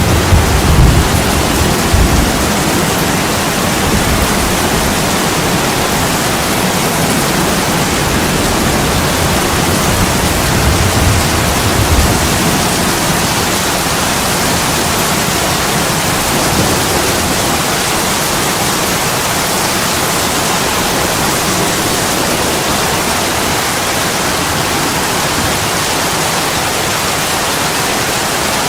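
Heavy rain pouring onto a window, a dense, steady hiss. A few low rumbles swell under it in the first couple of seconds and again about eleven seconds in.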